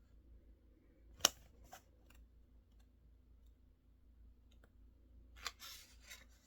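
Sparse clicks from desk work: one sharp click about a second in, two lighter ones just after, then a short cluster of clicks and rustling near the end.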